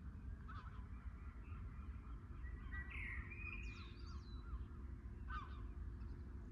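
Birds calling, a few short separate calls over a steady low background rumble.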